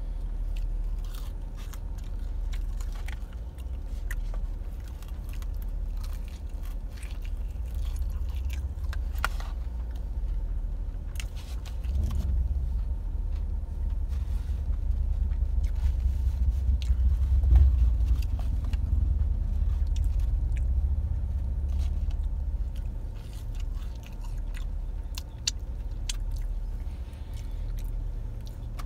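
A person chewing and biting fried chicken fingers with scattered small crunches and clicks, over a low steady vehicle rumble that grows louder from about twelve to twenty seconds in.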